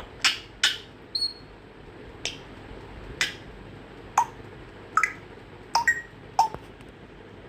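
African grey parrot making a string of about a dozen short, sharp clicks and squeaks, irregularly spaced, with a few brief whistled notes mixed in.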